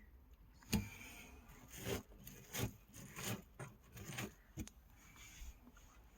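A string of light knocks and scrapes, about seven in all, the loudest a little under a second in, with faint rustling between them: handling noise as things are touched and moved.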